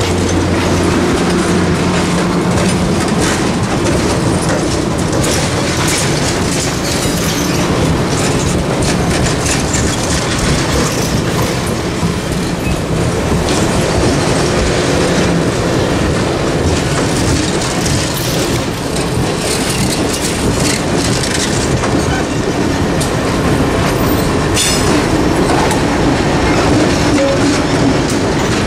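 Passenger train passing close by, its steel wheels clicking and rumbling over the rail joints. Near the end a diesel locomotive's engine hum comes in under the wheel noise.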